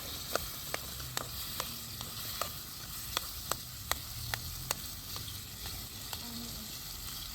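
Food sizzling as it fries in a pan while it is stirred, the utensil clicking against the pan about two or three times a second for the first five seconds, then only now and then.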